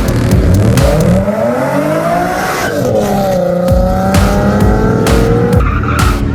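A high-performance car engine revs, its pitch climbing, dropping back near the middle, then holding steady, with music with a regular beat underneath.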